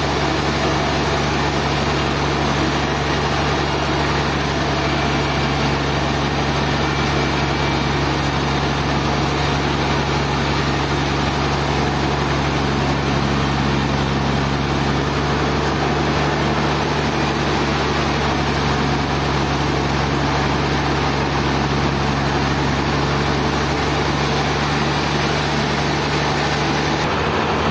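Sawmill machinery running steadily: a constant engine or motor drone with a low hum and even mechanical noise, unchanging in level.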